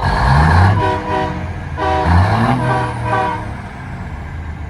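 Semi-truck air horns honking back and forth in short repeated blasts, several notes sounding together. Twice a low rumble rises in pitch, once at the start and once about two seconds in, as a diesel engine revs.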